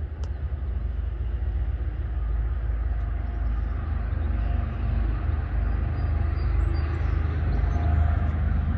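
Diesel freight locomotives approaching from a distance, heard as a low, steady rumble.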